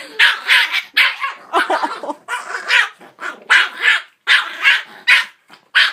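Puppy barking rapidly and repeatedly, two to three sharp barks a second, in agitated barking at a singing toy dog she hates.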